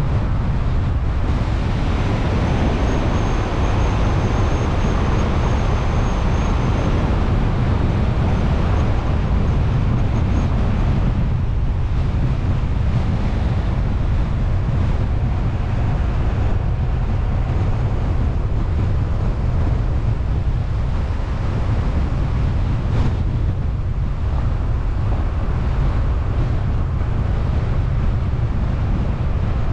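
Steady low rumble of a car being driven, with road and wind noise on the microphone.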